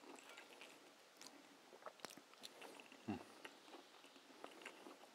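Faint chewing of crunchy, panko-breaded fried popcorn shrimp, with scattered small crunches and clicks, and a soft thump about three seconds in.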